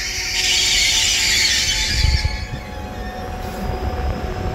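Hitachi Rock ETR521 double-deck electric train at the platform: a hiss for about the first two seconds, then the steady low rumble and hum of the train.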